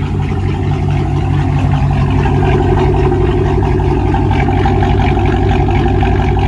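Cammed Chrysler 300C's Hemi V8 idling, heard loud from behind at the exhaust with a steady low rumble; the aftermarket camshaft gives it its loud, choppy idle.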